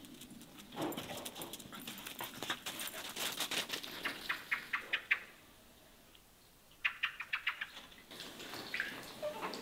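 A small bird calling in two quick runs of short, sharp chipping notes, about five or six a second, near the middle and again a couple of seconds later.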